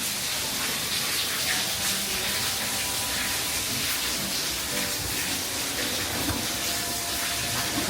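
Steady hiss of rushing water, even and unbroken throughout.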